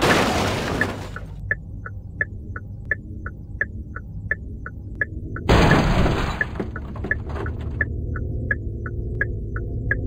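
Outro sound design: regular short ticks about three a second over a low steady drone, broken by two loud whooshing surges, one at the start and one about five and a half seconds in.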